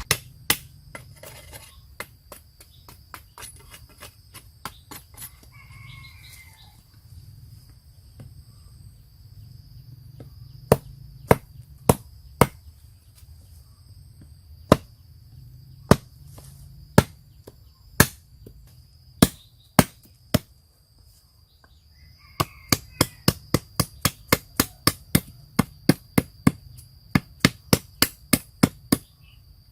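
Sharp knocks, as of chopping or hammering: a few irregular strikes, then a fast run of about four a second near the end. A steady high-pitched insect drone runs underneath.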